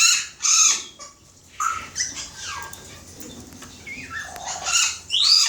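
Cockatiels calling: a string of short, shrill chirps and whistles, with a falling whistle about two seconds in and a rising one near the end.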